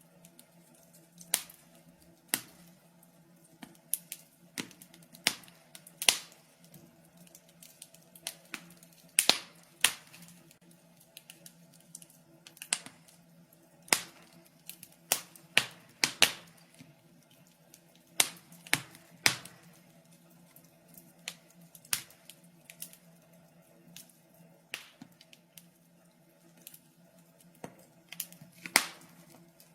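Wood fire crackling in a fireplace: irregular sharp pops and snaps, about one or two a second, some louder than others, over a faint steady low hum.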